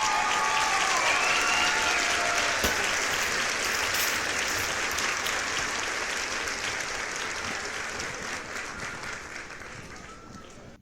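Crowd applauding and cheering, with a few rising and falling whoops in the first couple of seconds, then slowly fading away and cutting off at the end.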